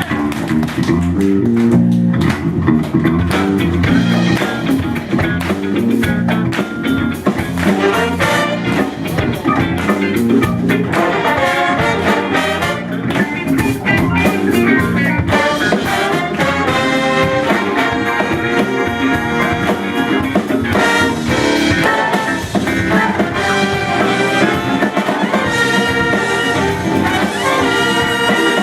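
Large funk band playing live: a brass section of trumpets, trombones and saxophones over a repeating bass line.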